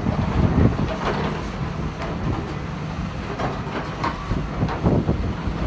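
Cat 320 excavator's diesel engine running steadily, with irregular clanks and knocks throughout.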